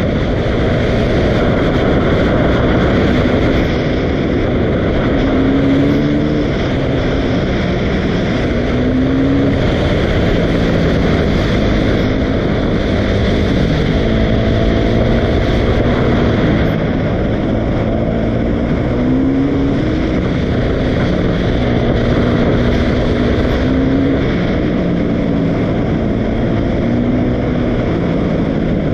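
Dirt bike engine running continuously, its pitch rising in short revs again and again as the throttle is worked.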